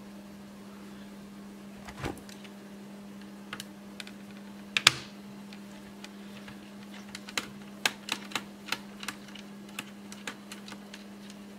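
Irregular clicks and taps from an HP 625 laptop's case and small parts being handled and pried apart during disassembly, with one sharp louder click about five seconds in and a quicker run of clicks near the end. A steady low hum runs underneath.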